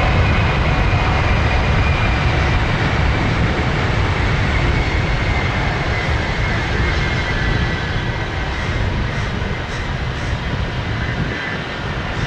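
Jet airliner's engines passing close by, a loud steady roar with a high whine that slowly falls in pitch as the roar gradually fades.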